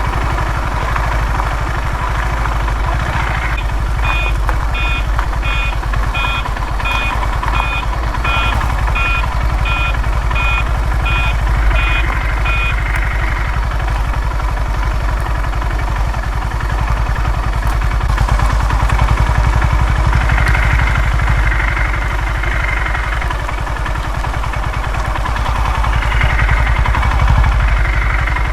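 Honda CB350 motorcycle engine running with a steady low rumble. From about four seconds in, evenly spaced electronic beeps sound about one and a half times a second for roughly nine seconds.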